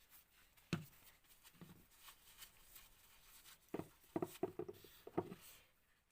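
Light clicks and taps of small metal nitro-engine parts being handled and oiled on a bench: a sharp knock under a second in, a softer one shortly after, then a quick run of taps in the second half.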